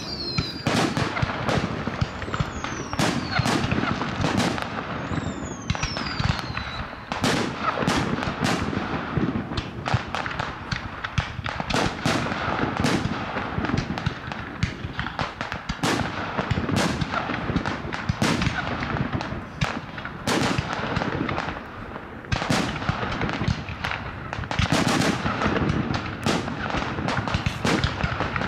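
Fireworks display: aerial shells launching and bursting in a rapid, continuous string of bangs. Several falling whistles sound in the first seven seconds.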